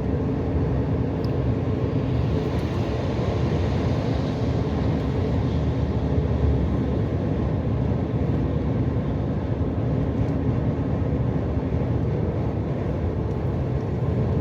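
Steady noise inside a moving truck cab: engine drone with a faint steady hum, mixed with road and wind noise, without change.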